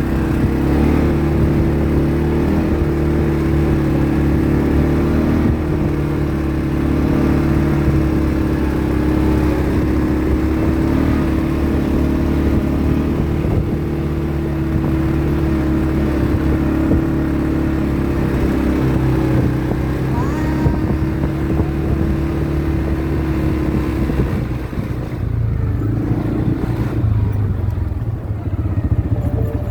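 ATV engine running steadily under way, its note dropping lower about 25 seconds in.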